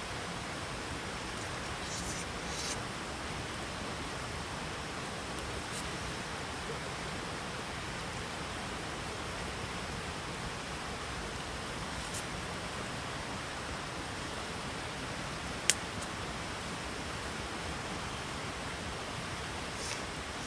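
Steady rushing noise with a few sharp pops from a wood campfire, one much louder pop about three-quarters through.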